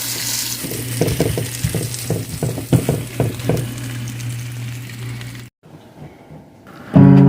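Eggs frying in a pan, sizzling steadily, with scattered clicks of a utensil against the pan as they are stirred. The sizzle cuts off about five and a half seconds in, and guitar music with singing starts just before the end.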